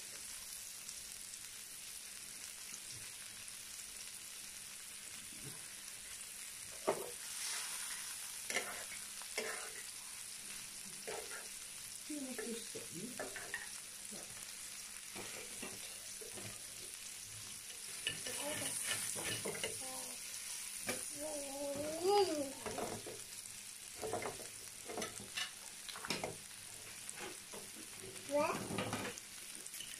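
Meat, sausage and bread sizzling in hot fat on an electric tabletop gourmet grill plate, a steady high hiss, with occasional light clicks of a fork against the plate.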